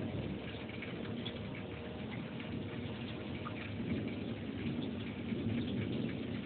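Rain falling in a thunderstorm: a steady hiss with many scattered ticks of drops striking a surface.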